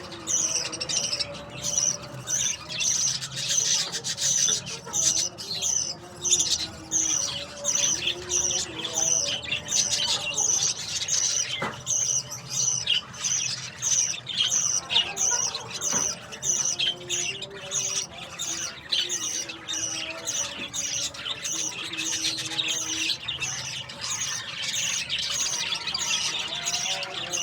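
Budgerigar chicks begging for food: high, raspy cheeping calls repeated steadily about twice a second, the sound of hungry nestlings being fed.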